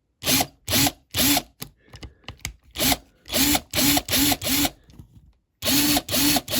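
Small electric drill or rotary tool triggered in about a dozen short bursts, its motor spinning up quickly each time, with a brief pause near the end.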